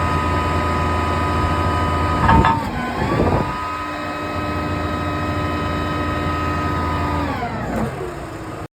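Mack EM7-300 straight-six diesel engine running at raised revs, with a brief knock and dip in revs about two seconds in that recovers. Near the end the revs fall back down.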